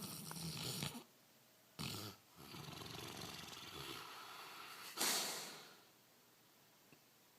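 Bernese mountain dog–Labrador mix snoring in its sleep: four snores of uneven length, the longest about two and a half seconds, the last one the loudest, fading away.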